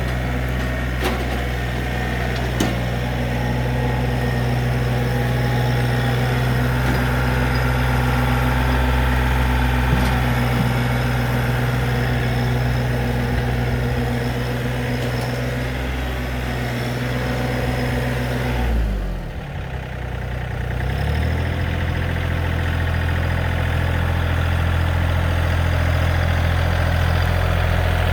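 John Deere 3025E compact tractor's three-cylinder diesel running steadily at working revs while the repaired hydrostatic pedal linkage is tested under load. About two-thirds of the way through, the engine revs fall sharply and then come back up within a couple of seconds.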